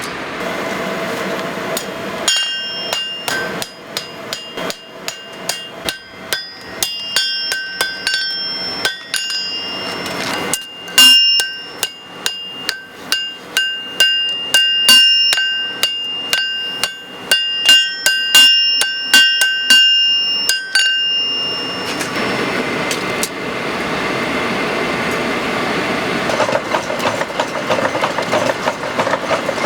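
Hand hammer striking hot steel on an anvil at about two blows a second, each blow ringing out clearly from the metal. The hammering stops about three-quarters of the way through and a steady, noisy machine sound takes over.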